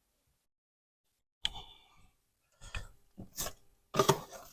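Drywall mud being packed into a hole in the wall: a few short, scattered scrapes and clicks of the tool working the compound, starting after about a second and a half of quiet.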